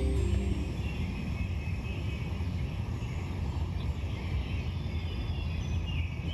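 Outdoor ambience: a steady low rumble with faint bird calls over it, as background music fades out in the first second.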